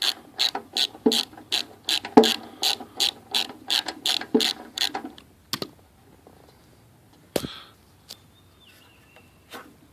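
Socket ratchet wrench with a half-inch socket clicking steadily, about four clicks a second, as a bolt is turned. The ratcheting stops about five seconds in, followed by a couple of knocks.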